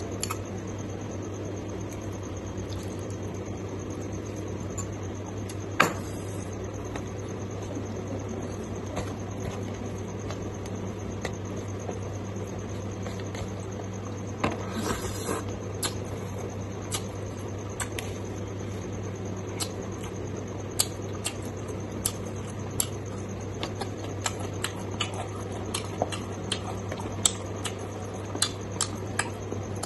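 A person eating pork and rice by hand and chewing, with short wet mouth clicks and smacks that come more often in the second half, and one sharper click about six seconds in. A steady low hum runs underneath.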